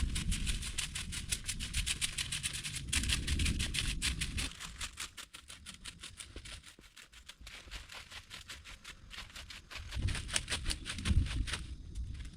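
Rain falling, a dense run of drops ticking. A low rumble runs under it for the first few seconds and comes back near the end.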